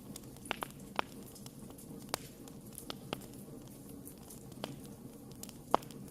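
Wood campfire crackling over a steady low hiss of burning, with sharp pops scattered irregularly through it; the loudest pop comes near the end.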